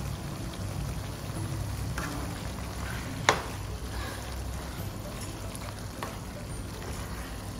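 Bitter gourd and mutton mince frying in a pan while a wooden spatula stirs them, with a steady sizzle and one sharp knock about three seconds in.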